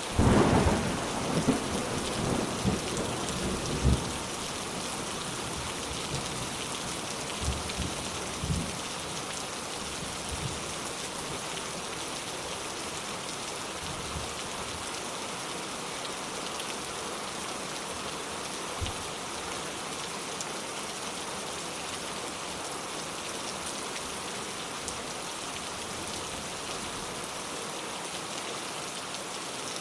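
Steady rain falling, with a roll of thunder that is loudest over the first four seconds and a few fainter low rumbles about eight seconds in.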